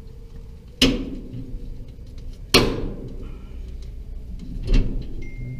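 Three sharp knocks with short ringing tails, spaced about two seconds apart, from metal furnace parts being handled and fitted back together during reassembly of the blower motor and belt.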